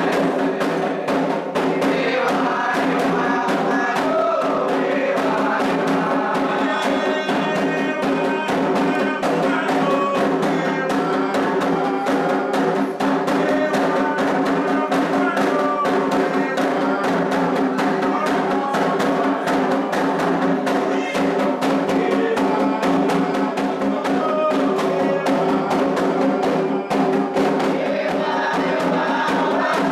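Candomblé atabaque drums playing a fast, steady rhythm under group singing, a ritual song for the orixá Ewá.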